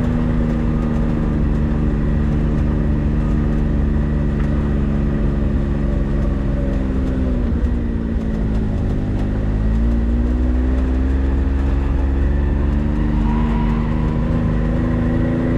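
4x4 vehicle engine running under way with a steady low rumble. Its pitch drops about halfway through, then rises again over the next few seconds.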